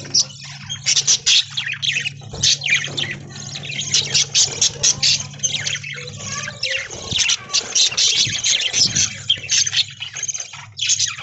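A flock of budgerigars chattering and chirping continuously in quick, overlapping high calls. A low steady hum sits underneath and stops about two-thirds of the way through.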